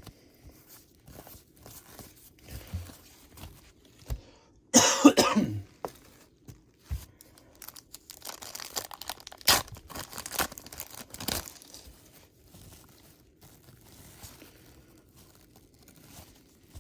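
A person coughs once, loudly, about five seconds in. Around it are light rustles and clicks of cardboard trading cards being handled and flipped, busiest a few seconds after the cough.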